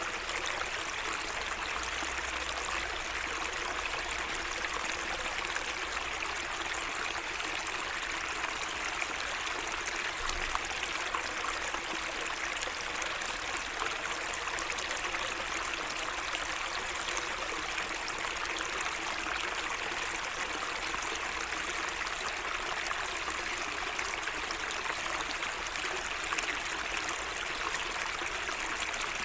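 Water flowing and trickling steadily along a small garden waterway, an even babbling with no breaks.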